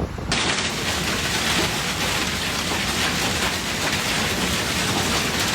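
Heavy rain pouring onto hard surfaces: a dense, even hiss that starts abruptly a moment in.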